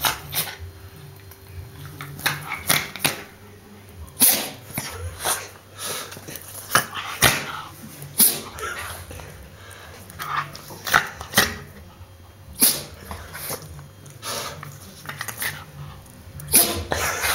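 Dog sneezing over and over, many short, sharp bursts at irregular intervals.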